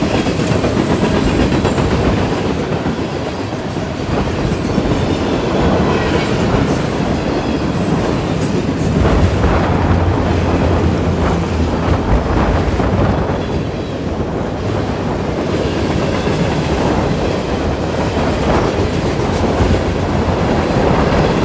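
Freight cars of a CN manifest train rolling past a level crossing at speed, with steady wheel noise and clacking over the rail joints.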